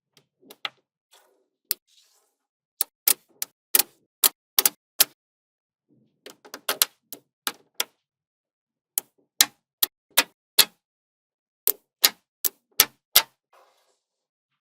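Small magnetic balls clicking sharply as they snap onto one another, one at a time in irregular runs of several clicks with short pauses between the runs.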